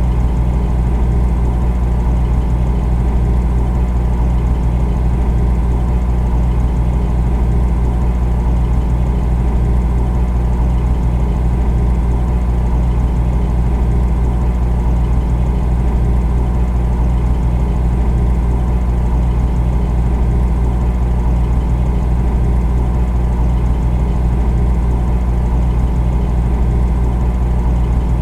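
Refrigerator running with a steady low hum, unchanging throughout.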